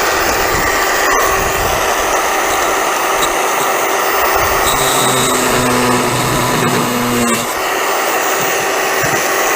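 A tool running steadily with a continuous rushing noise as it works on a brass water-heater pop-off valve. A low hum joins it for a couple of seconds in the middle.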